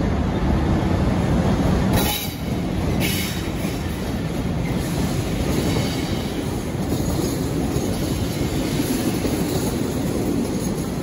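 A Class 66 diesel locomotive's engine runs as it passes close by, a heavy low drone. About two seconds in the engine sound drops away, with two sharp clanks a second apart. A rake of empty container flat wagons then rolls past with a steady rumble of wheels on rail.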